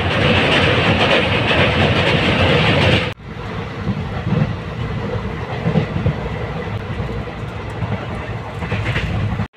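Passenger train running, heard from inside the carriage by a barred window: a loud, steady rumble that drops away suddenly about three seconds in, then a quieter rattle of wheels on rails with scattered clacks.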